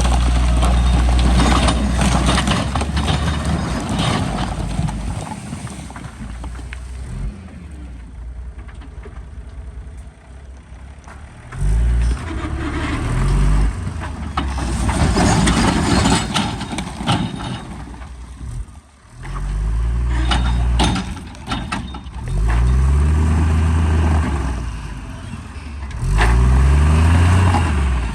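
Heavy diesel earthmoving machinery at work: a large engine runs and revs up and down in repeated surges, with scattered clanks and rattles.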